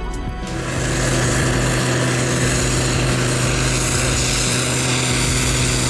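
Engine of a heavy snow-clearing machine running steadily, a constant droning hum that starts about half a second in.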